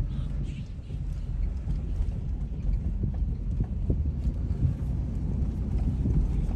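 Vehicle driving: a low, steady rumble of engine and tyres with scattered light knocks and rattles.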